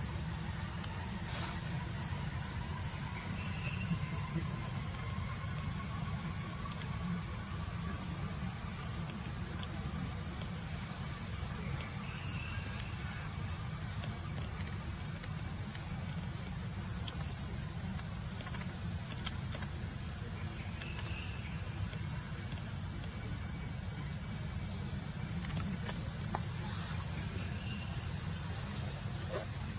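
Insects chirping steadily in a continuous high-pitched trill of rapid, even pulses, over a low steady hum.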